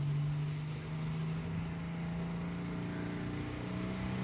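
International Harvester 400 pulling tractor's engine running steadily at the line. Its pitch rises a little near the end as it starts to rev.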